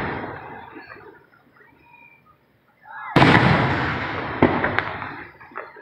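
Aerial firework shells bursting. The rumbling echo of one burst fades over the first second, then after a short lull a loud boom comes a little after three seconds in, followed about a second later by two sharp cracks as its rumble dies away.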